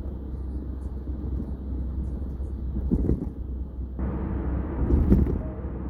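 Steady road and engine noise of a Kia K5 at highway speed, heard inside the cabin as a low drone, with two brief louder rumbles about three and five seconds in.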